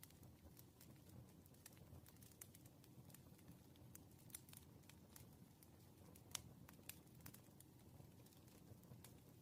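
Faint wood fire crackling: irregular sharp pops and snaps over a low steady rumble of burning logs, with one louder pop a little past halfway.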